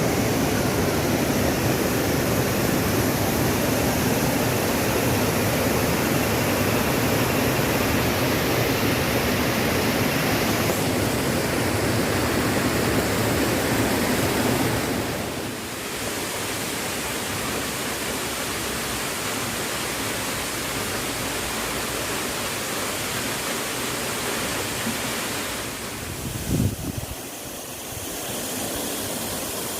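Waterfall: a steady rush of falling water. It is heavier and fuller for about the first half, then lighter and thinner. A brief low thump comes near the end.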